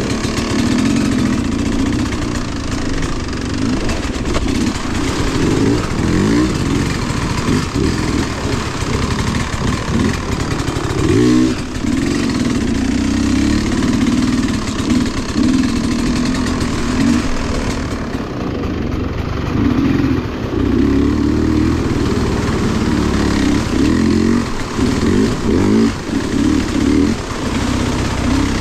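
Vehicle engine revving up and down over and over as it is driven hard, its pitch rising and falling constantly.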